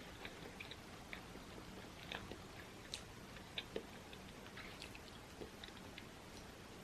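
Close-miked chewing: faint, wet mouth clicks and smacks at an irregular pace.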